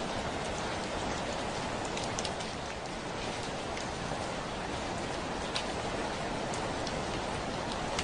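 Heavy rain falling steadily, a continuous hiss with the sharp ticks of individual drops striking a window pane scattered through it.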